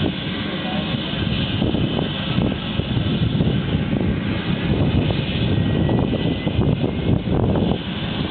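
Turboprop engine of a Cessna 206 during its start, a steady turbine rumble with a faint high whine that rises slightly in pitch partway through.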